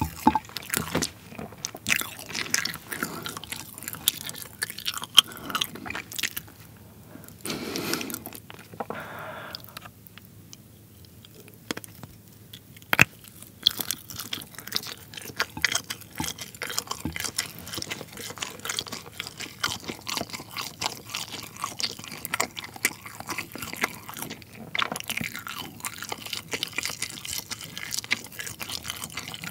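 Close-miked chewing and biting of soft, rainbow-coloured pull-apart string cheese: a dense run of small mouth clicks, with a quieter stretch about ten seconds in.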